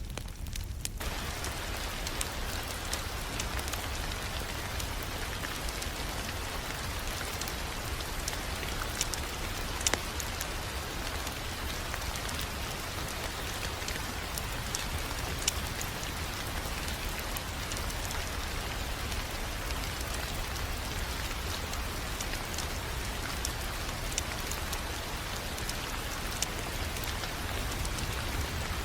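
Steady hiss with a low rumble and scattered sharp pops, typical of a crackling wood fire; the hiss fills in about a second in.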